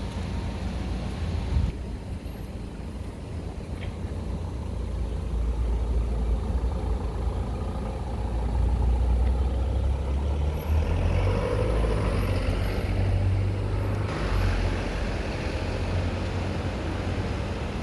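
Steady low rumble of road traffic, with a heavy vehicle swelling louder through the middle.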